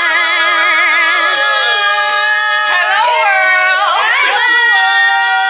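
A voice singing long, held notes with a wide, wavering vibrato. It slides up and down to new pitches about three and four seconds in.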